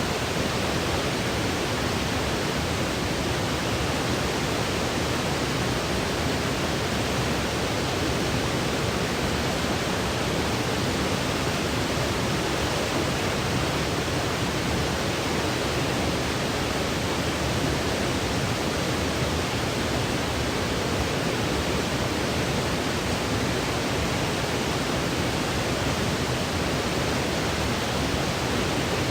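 Steady electronic white noise for sleep: an even, unchanging hiss spread across low and high pitches, with no breaks or events.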